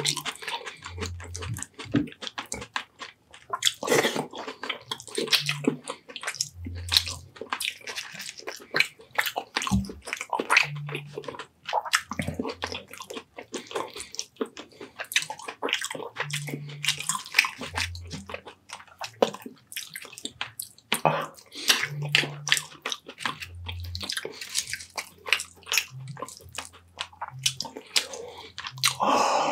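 Close-miked wet chewing and mouth smacking of someone eating baked sea bass and rice in big bites, with irregular clicks and squelches throughout.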